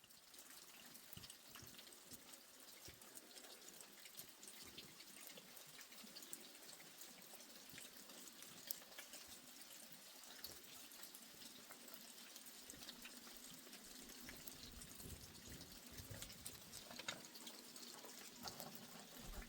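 Faint steady rain, with many separate drops dripping and pattering.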